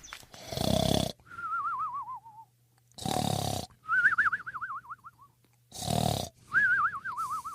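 Cartoon snoring sound effect, three times over: a rasping snore in, then a warbling whistle out that wavers and falls in pitch.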